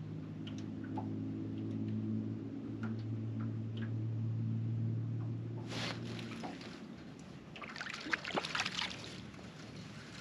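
A boat motor hums steadily for about six seconds, then cuts off, leaving water lapping and slapping with scattered small clicks and taps.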